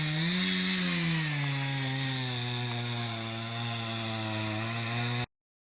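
Chainsaw running at a steady speed. Its pitch rises briefly, then drops to a lower steady note and holds until it cuts off abruptly.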